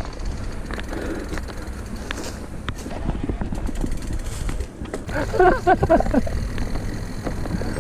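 Mountain bike riding down a forest trail: a steady rumble of tyres and wind on the microphone, with scattered clicks and rattles from the bike over rough ground. A brief pitched, broken sound rises over it about five seconds in.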